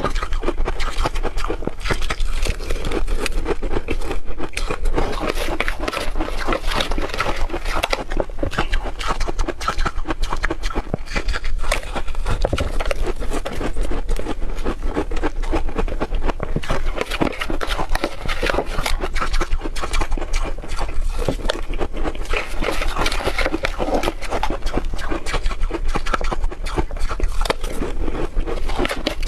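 Hard refrozen ice being bitten and chewed close to the microphone: a continuous run of loud, crisp crunches and cracks, with a steady low hum underneath.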